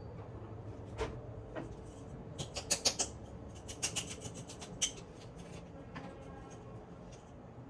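Kitchen items being handled: light clicks and taps, with a quick run of sharp clicks about two and a half to three seconds in and a few more around four and five seconds.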